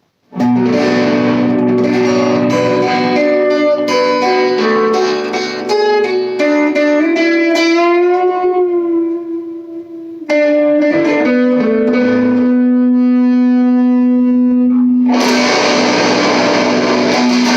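Two-pickup electric guitar played through a small all-tube amp with the gain at maximum, its volume knob rolled back so the tone comes out clean. Picked notes and chords, one note bent with vibrato around the middle, a long held note, then a denser, brighter chord ringing near the end.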